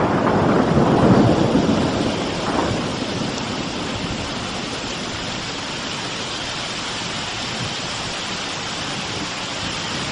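Thunder rumbling after a lightning strike, loud at first and dying away over the first few seconds, leaving the steady hiss of falling rain.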